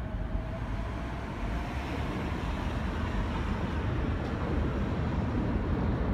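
Sotetsu 11000 series electric train approaching, its low rumble growing steadily louder.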